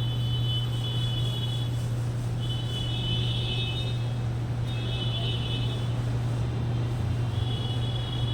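A steady low mechanical hum, with a high warbling tone that comes and goes about every two seconds over it.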